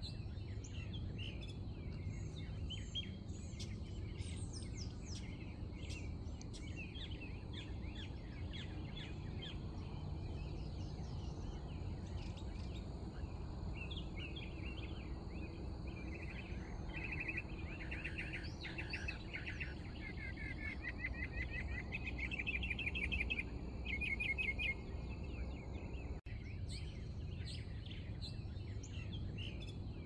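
Songbirds chirping and singing over a steady low rumble of outdoor ambience. About halfway through, a louder rapid trill repeats for several seconds. The sound cuts out for an instant near the end.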